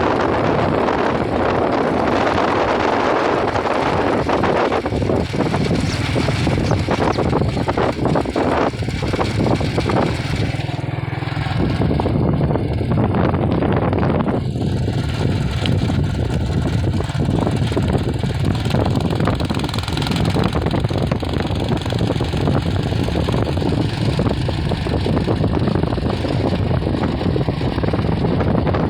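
Steady engine noise of a moving vehicle, with wind buffeting the microphone.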